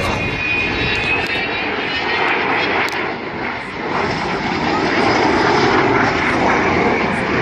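Fixed-wing aircraft engine noise: a loud, steady rush, with a high whine near the start that drops slightly in pitch.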